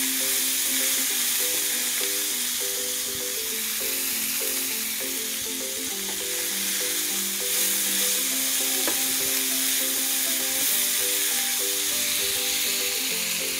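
Chicken and vegetables sizzling steadily as they are stir-fried in a pan over medium heat and turned with a wooden spatula. A slow background melody of held notes plays over the frying.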